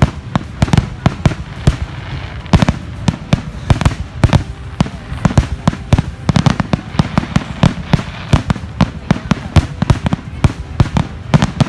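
Fireworks going off: a rapid, unbroken string of sharp bangs and crackles, several each second.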